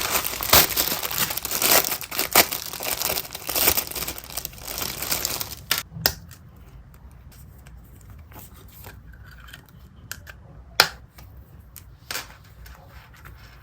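Packaging being torn open and crinkled by hand for about six seconds, then quieter handling with a few sharp clicks.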